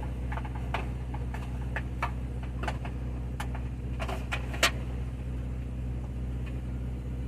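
A steady low mechanical hum with light clicks and knocks scattered through it; the sharpest knock comes a little over four and a half seconds in.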